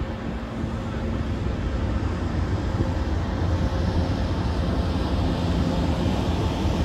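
Empty Aurizon coal train running by: a steady low rumble with a faint hum, slowly getting louder.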